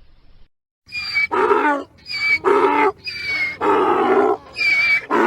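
Donkey braying: about four hee-haw cycles, each a thin high squeal on the in-breath followed by a longer, lower, loud haw on the out-breath, starting about a second in.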